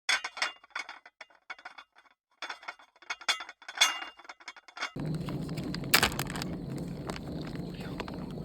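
Cookware and utensils clinking and scraping in short, scattered taps. About five seconds in, a steady low hum sets in under the occasional click.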